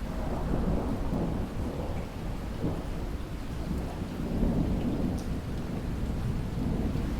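Rainstorm: steady rain with a long, low roll of thunder that swells right at the start and keeps rumbling through.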